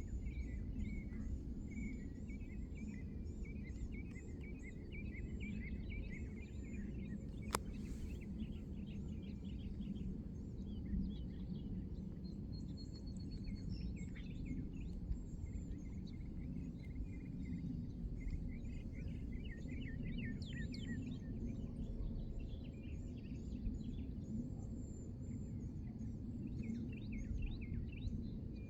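Many small birds chirping and trilling over a steady low rumble, with a single sharp click about seven and a half seconds in.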